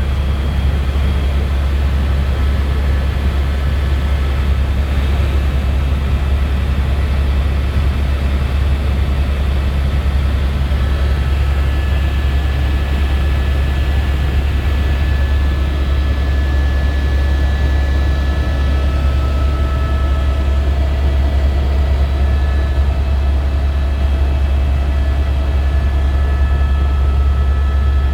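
Helicopter in flight, heard from inside the cabin: a loud, steady low drone of the engine and rotor, with a faint thin whine on top.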